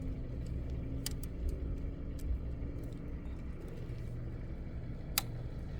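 A car engine idling, a steady low rumble with a faint hum, broken by a couple of sharp clicks, one about a second in and one near the end.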